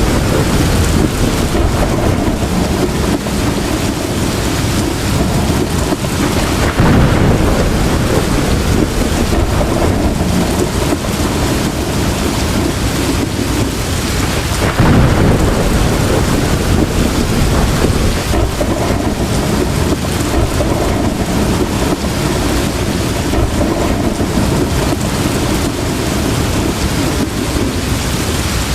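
Heavy rain pouring steadily, with thunder rumbling low underneath and swelling about seven and fifteen seconds in.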